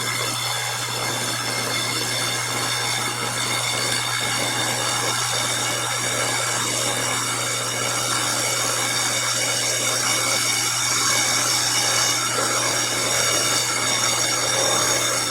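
Milling machine spindle driving a slitting saw through a clamped workpiece: a steady motor hum with a gritty cutting noise, growing slightly louder in the second half.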